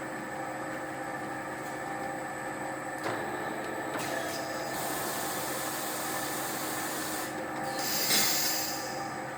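Machinery running steadily with a hum of several steady tones. A knock comes about three seconds in, then a hiss from about five seconds in, with a louder burst of hiss around eight seconds.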